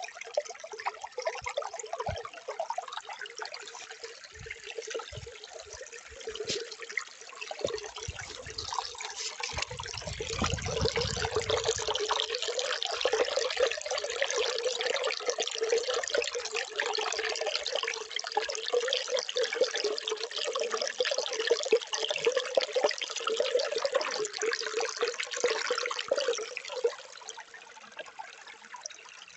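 Water flowing and trickling steadily, growing louder about a third of the way in and easing off near the end, with a few low thumps and a brief low rumble early on.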